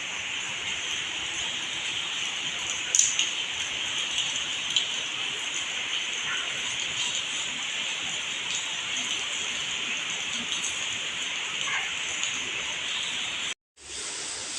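Heavy rain falling steadily, a dense even hiss with scattered louder drops and taps, one sharp tap about three seconds in. The sound cuts out for a split second near the end.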